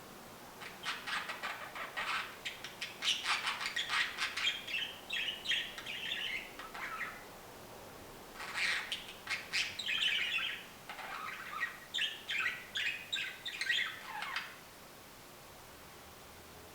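Budgerigar warbling song: fast chattering chirps, clicks and short whistles in two long bouts with a short break between them. It stops a couple of seconds before the end.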